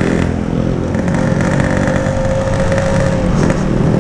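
Yamaha RX-King single-cylinder two-stroke engine running at low, steady throttle while riding, pulling weakly and close to stalling. The rider blames an over-rich, wet carburettor, possibly with water in it.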